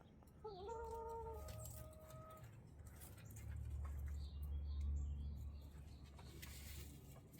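A chicken giving one drawn-out, steady-pitched call that begins about half a second in and lasts about two seconds. A few faint, short, high chirps follow near the middle, over a low rumble.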